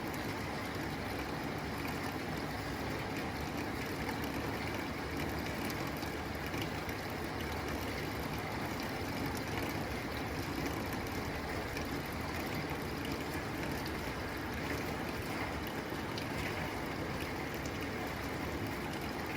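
Steady rain falling on a tin roof, a dense even patter with faint scattered drop ticks.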